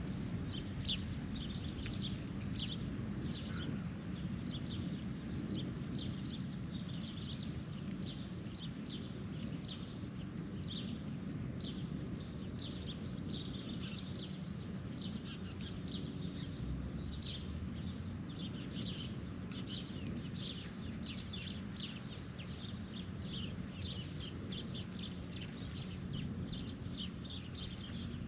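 Birds chirping continuously, many short, quick chirps following one another, over a steady low rumble.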